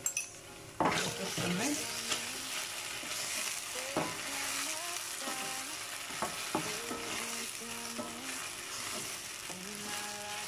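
Tomato paste and fried onion sizzling in hot oil in a stainless steel pan, stirred with a wooden spoon that knocks against the pan now and then. The sizzle rises sharply a little under a second in as the stirring starts.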